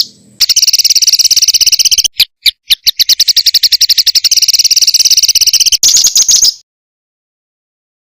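Songbird's fast, harsh staccato trill of rapidly repeated notes (the 'tembakan' type of song). It comes in two runs with a short broken gap between them, then changes to a higher, buzzier phrase that cuts off suddenly about two-thirds of the way through.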